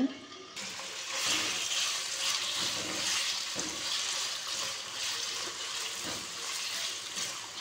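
Raw boneless chicken pieces sizzling in hot oil in a non-stick wok, the sizzle starting suddenly about half a second in as the chicken hits the oil. The chicken is stirred with a wooden spatula, with a few soft knocks of the spatula against the pan.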